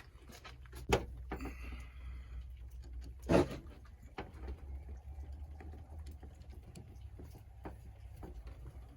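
Scattered clicks and small knocks of hands working a hose clamp onto a rubber washer-fluid hose, the loudest about a second in and again after three seconds, over a steady low rumble.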